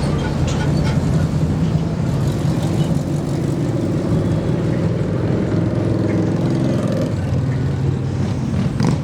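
A car engine running steadily at low revs. Its higher tones fade about seven seconds in.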